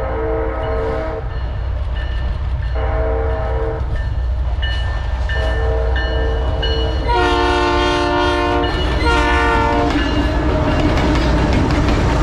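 Diesel freight locomotive air horn sounding a series of blasts over the low rumble of the engines and rolling train; the two blasts about seven and nine seconds in are the loudest as the lead locomotive draws near, then the rumble and wheel noise carry on.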